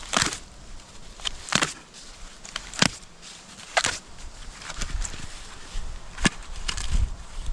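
Wood being chopped, a series of sharp chopping strikes about once a second, most likely firewood being split for a campfire.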